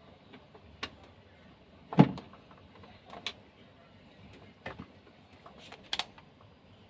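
A handful of separate clicks and knocks from parts and tools being handled during a refrigerator repair, the loudest a sharp knock about two seconds in.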